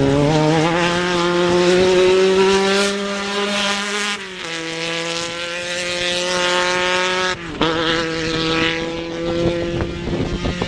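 Off-road race vehicle's engine at high revs, its pitch climbing steadily, then falling sharply twice, about four and seven and a half seconds in, as with upshifts, holding steady in between.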